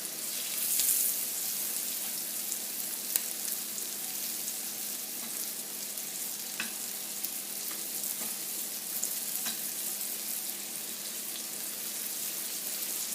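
Flour-dusted chicken breasts sautéing in a pan: a steady frying sizzle with scattered small pops, louder for a moment about a second in.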